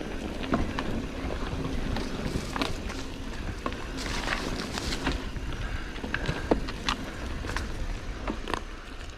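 Rock Machine Blizzard mountain bike riding down a dirt trail: tyres rolling over the ground and the chain and frame rattling in sharp clicks over bumps, with wind noise on the camera microphone.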